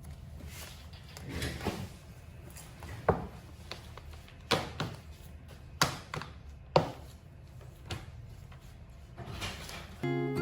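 Objects being handled in a small room: a series of sharp knocks and clicks, like things set down or a door or drawer moving, over a faint background.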